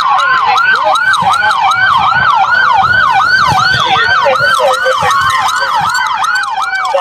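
Police car sirens sounding together: one in a fast yelp, about three sweeps a second, over another wailing slowly down in pitch.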